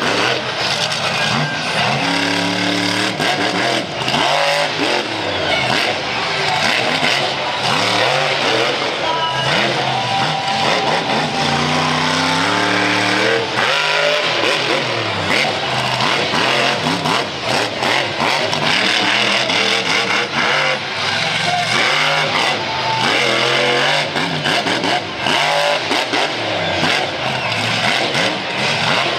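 Monster truck engine revving hard, its pitch repeatedly rising and falling as the throttle is worked on and off through a freestyle run.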